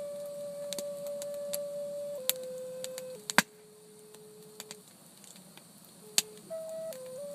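A slow tune of long held notes in a thin, pure, flute-like tone, dropping step by step with a pause in the middle. Sharp crackles of a campfire pop through it now and then, the loudest about three and a half seconds in.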